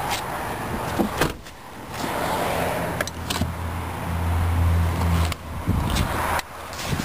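A small electric motor in the car runs steadily for about three and a half seconds, a low hum that starts about two seconds in. Several sharp clicks and knocks come before and after it.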